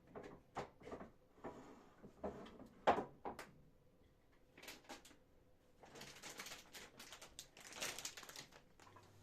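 Household objects being handled: a quick run of knocks and clicks, then a few seconds of scratchy noise.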